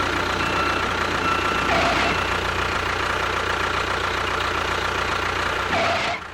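An engine running steadily with a low rumble, cutting off abruptly at the end.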